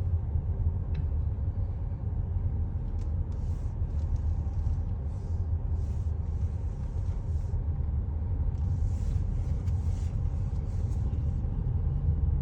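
Steady low rumble of a car rolling slowly, engine and road noise heard from inside the cabin.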